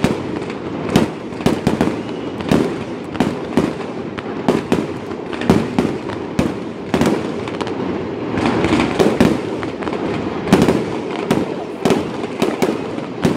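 Aerial fireworks display: a string of sharp shell bursts, about one or two bangs a second, over a continuous rumble between them.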